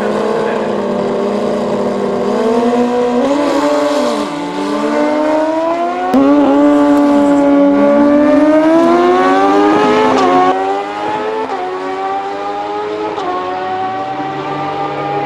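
Turbocharged Suzuki Hayabusa and nitro-boosted Suzuki GSX-R1000 drag-bike engines revving hard, their pitch climbing and then falling again several times. The loudest stretch runs from about six to ten seconds in.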